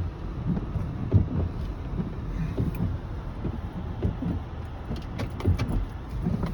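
Car rolling slowly, heard from inside the cabin: a low rumble with irregular soft thumps. A few light sharp clicks come about five seconds in.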